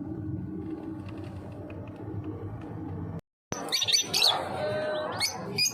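A low steady rumble, then, after an abrupt cut, bird chirps and squawks.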